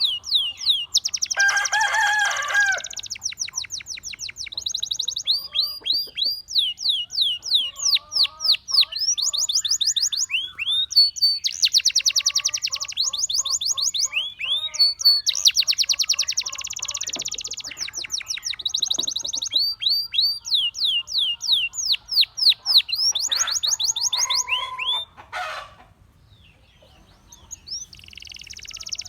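Gloster canary singing: fast rolls of repeated down-slurred notes and dense, buzzy trills, with a lull of a couple of seconds near the end before the song starts again.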